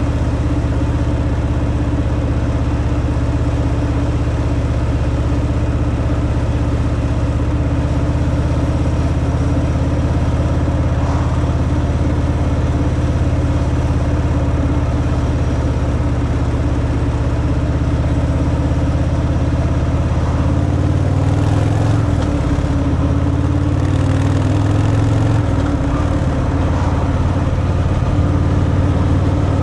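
Harley-Davidson Fat Boy's V-twin engine running through the stock exhaust while riding, a steady low engine note that dips and rises in pitch about two-thirds of the way through.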